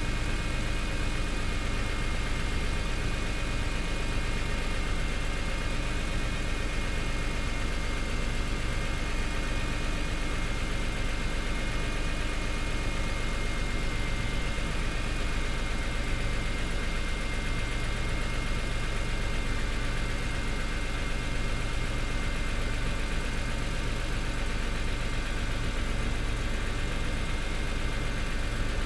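Car engine idling steadily a few minutes after a cold start following an overnight sit, with a steady whine running above the idle.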